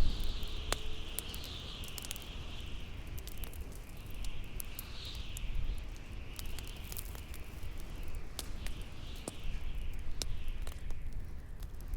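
Bonfire crackling with irregular sharp pops, over wind howling that swells and fades in waves and a steady low rumble.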